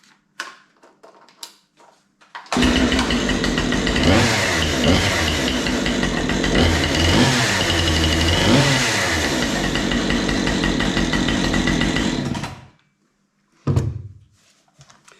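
Freshly serviced two-stroke chainsaw started for its test: a few light clicks, then the engine catches about two and a half seconds in, runs about ten seconds with several revs up and down, and cuts off suddenly; a short knock follows. It starts and runs properly after the maintenance.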